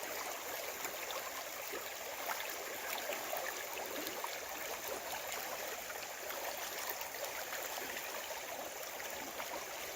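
Creek water running over a shallow riffle, running high after heavy rain: a steady rushing and babbling.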